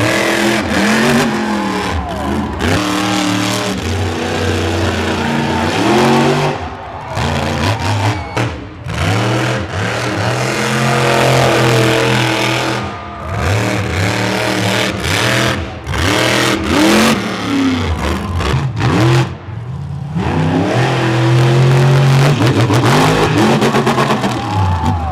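Monster truck engines revving hard again and again, the pitch climbing and dropping with each blip of the throttle, with brief drops in level between bursts.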